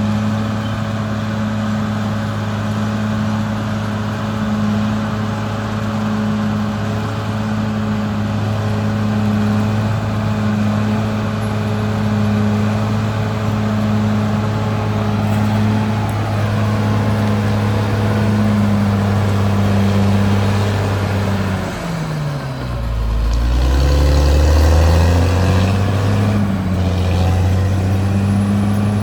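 Caterpillar D6R XL bulldozer's diesel engine running steadily. About 22 seconds in its pitch drops sharply, then climbs back over the next few seconds and grows louder.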